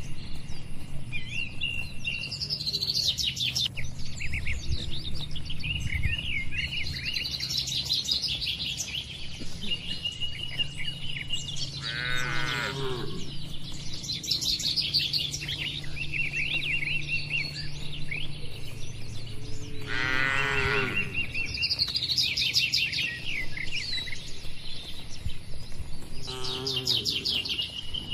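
Birds chirping and trilling throughout. Cattle low at intervals: a call falling in pitch about twelve seconds in, another about twenty seconds in and a shorter one near the end. A steady low hum lies underneath.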